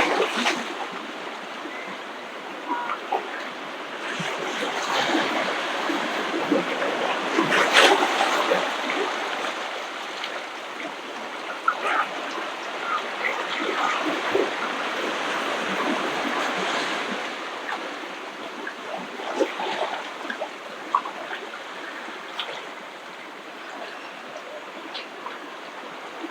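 Ocean waves washing onto the shore, swelling and fading every several seconds with a crackling fizz, loudest about eight seconds in.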